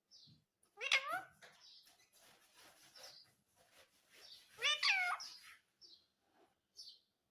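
Indian ringneck parrot calling: two loud, wavering calls that bend up and down in pitch, about a second in and again around five seconds, with soft chattering and short high chirps between them.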